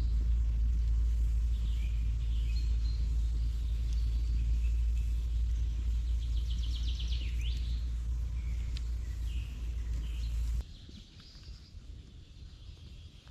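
Forest birds calling and chirping over a steady deep rumble, with a quick trill about seven seconds in. The rumble cuts off abruptly about ten and a half seconds in, leaving quieter birdsong.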